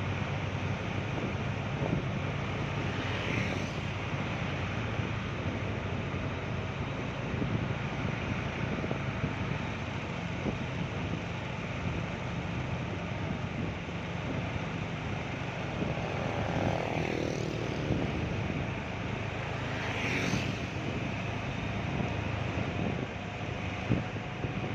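Heavily loaded sugarcane truck's engine running steadily under a constant wash of heavy rain, with a brief rise in pitch or passing sound a few seconds in and again near two thirds of the way through.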